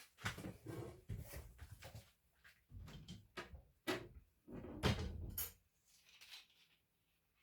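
Irregular clicks, knocks and short scrapes of laptop parts being handled and worked on, some ten separate handling sounds over several seconds.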